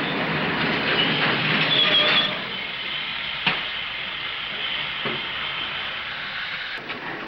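Railway station noise from passenger train cars on an early sound-film soundtrack. It is louder for the first two seconds, then settles into a steady hiss, with one sharp click about halfway through.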